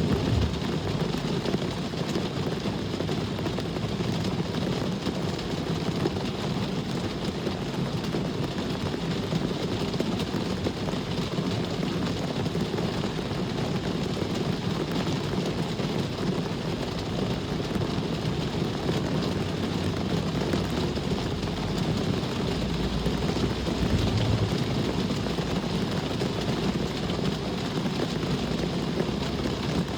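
Steady rain with the continuous low rumble of passing traffic, swelling briefly once in the last third.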